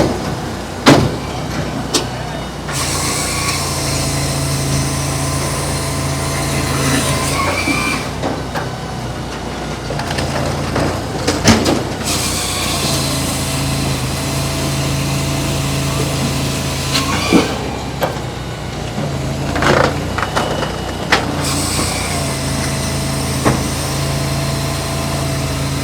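Eastonmade EVO hydraulic log splitter at work: its engine-driven hydraulics rise to a steady hum with a strong hiss for about four to five seconds at a time, three times, with sharp knocks and clunks of wood splits in between.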